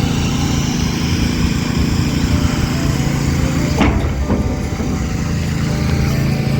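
A motor vehicle's engine running steadily, with a single knock a little under four seconds in.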